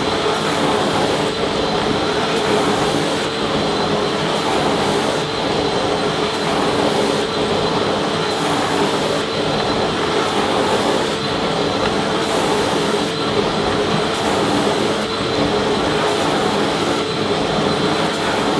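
Vacuum cleaner running steadily: an even rush of air with a constant motor hum.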